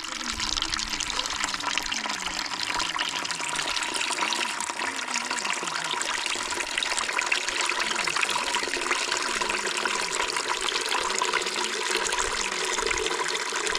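Steady rush of flowing water, holding an even level throughout.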